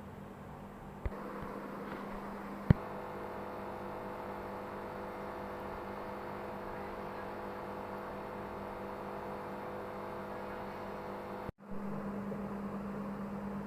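A steady electrical hum, like a small motor or pump running, with a sharp click about a second in and a louder one a little later, after which several steady tones join the hum. The sound cuts out for an instant near the end.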